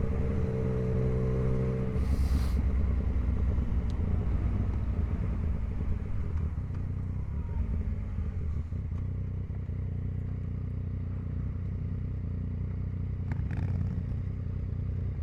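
Motorcycle engine running, with a pitched engine note for about the first two seconds that then settles into a steady low rumble.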